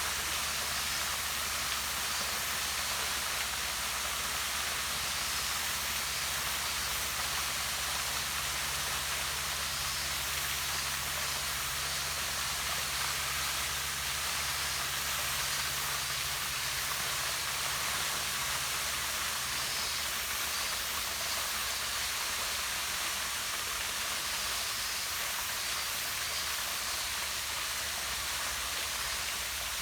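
Small waterfall splashing down a rock face into a pond: a steady, even rush of falling water.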